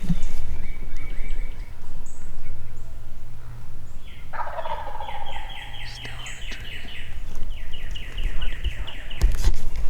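Wild turkey gobbler gobbling: a rapid rattling burst about four seconds in, followed by a long run of quick, higher-pitched notes. There is a low bump near the end.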